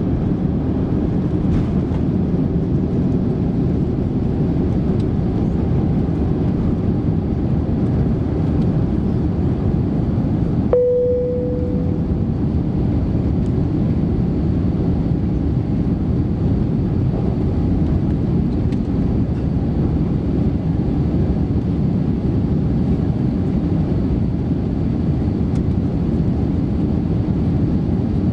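Steady roar of an Airbus A350-900's Rolls-Royce Trent XWB engines and airflow, heard inside the passenger cabin as the jet climbs after takeoff. About eleven seconds in, a single cabin chime sounds and fades away.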